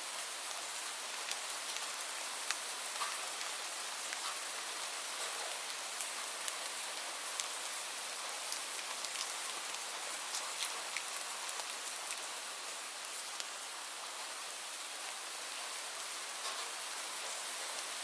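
Steady rain with scattered individual drops ticking, an even hiss.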